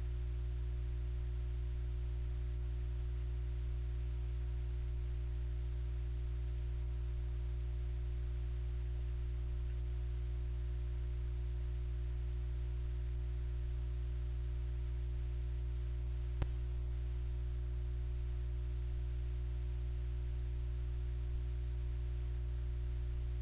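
Steady low electrical hum, with one sharp click about sixteen seconds in.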